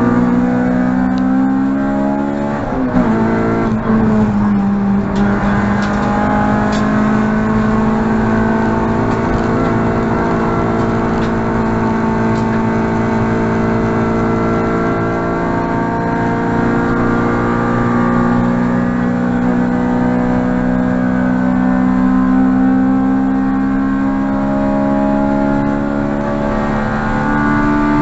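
Honda Civic EG6's B16A 1.6-litre four-cylinder VTEC engine at racing speed: the revs drop and jump about three seconds in, then the engine holds a long pull with the pitch rising slowly for over twenty seconds, and the revs fall away near the end.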